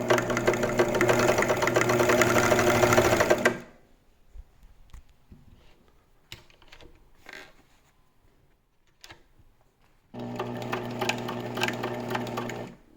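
Vintage 1976 Elna TSP 72C sewing machine sewing a wide zigzag stitch. It runs for about three and a half seconds, getting a little louder and faster partway through, then stops. After a stretch of faint clicks it runs again for about two and a half seconds near the end.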